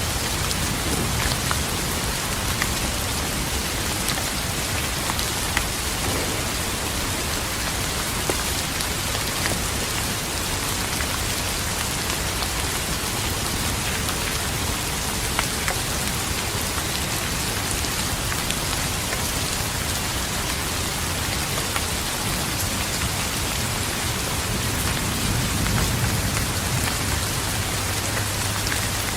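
Steady rain falling, with scattered drop ticks. Low rumble of distant thunder, faint at the start and swelling near the end.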